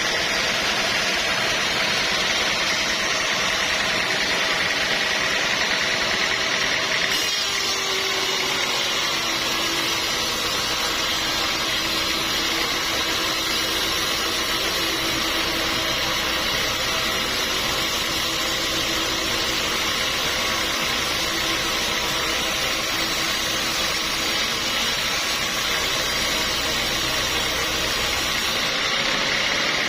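Sawmill machinery running steadily, a loud mix of motor and saw noise. About seven seconds in, a high whine gives way to a lower hum.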